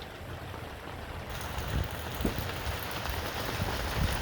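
Steady rain falling, an even hiss of drops hitting surfaces. The hiss gets brighter and fuller about a second in.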